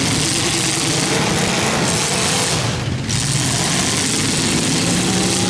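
Several demolition derby cars' engines running loudly together, their pitch shifting as the cars push and shove in the arena.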